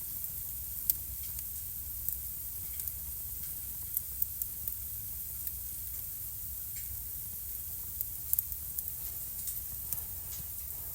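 Wood fire crackling in a fireplace: a steady hiss with a low rumble beneath, broken by scattered sharp pops and snaps. The loudest pop comes about a second in, and a quick cluster of pops follows a little after eight seconds.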